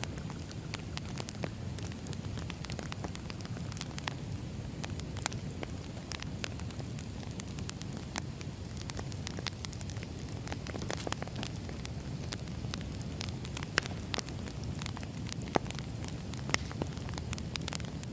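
Wood fire crackling: many small pops and snaps over a steady low rumble, with a few sharper pops near the end.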